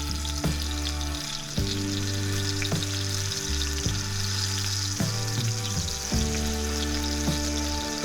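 Beef steak sizzling in beef tallow in a skillet, a steady frying hiss, under background music with a bass line that changes note about once a second.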